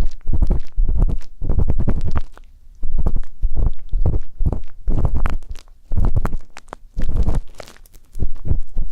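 Ear pick scraping and rubbing in ASMR ear cleaning, in around eight strokes of half a second to a second each with short pauses between.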